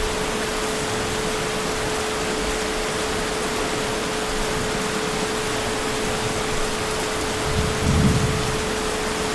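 Steady heavy rain with a faint steady hum underneath, and a brief low rumble of distant thunder about eight seconds in.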